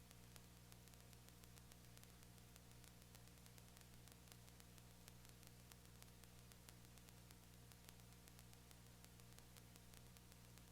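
Near silence: a faint steady low hum with hiss.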